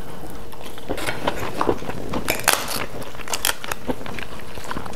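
Close-up eating sounds: chewing and crunching of crisp fried crackers, with scattered small crackles and a few sharper crunches a little over two seconds in.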